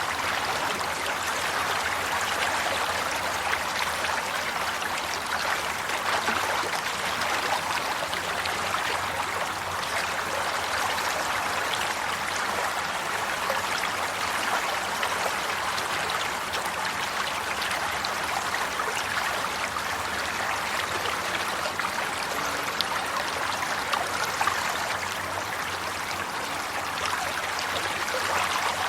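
Flowing water, a steady babble of a stream or brook running over stones with small splashes and trickles.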